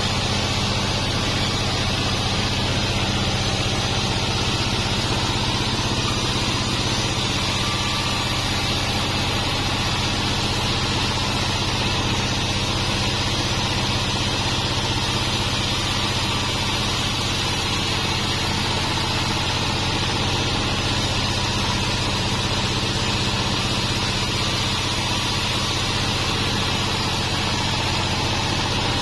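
Sawmill band saw running steadily: a constant motor hum with an even high hiss that neither rises nor falls.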